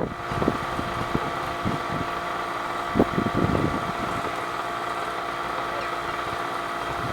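A steady mechanical engine hum holding several fixed tones, with a few short low thumps, the clearest about three seconds in.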